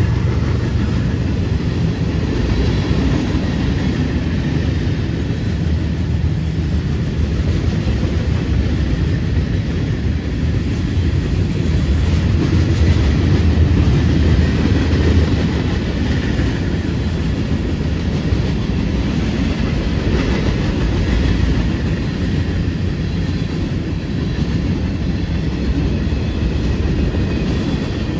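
A train's cars rolling past close by: a loud, steady rumble with the clatter of wheels on the rails.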